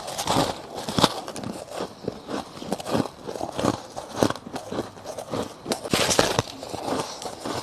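Close-up crunching of soft crushed frost ice being bitten and chewed, a rapid irregular run of crisp crackles and crunches.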